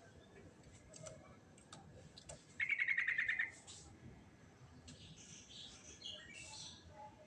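Yellow-vented bulbul (trucukan) singing: a fast trill of about ten notes a second lasting about a second, then a jumble of higher chirps and short whistles.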